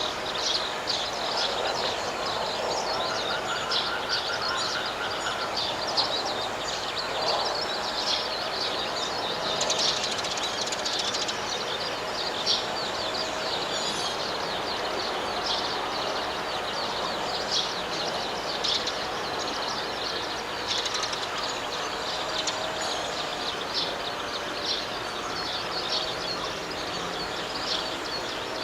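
Rice-paddy outdoor ambience: a dense, continuous chorus of short high chirps over a steady hiss, with a few faint held tones underneath.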